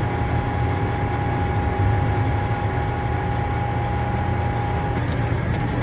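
A heavy engine idling steadily with a low drone, and a steady whine over it that cuts off about five seconds in. There are a couple of faint clicks near the end.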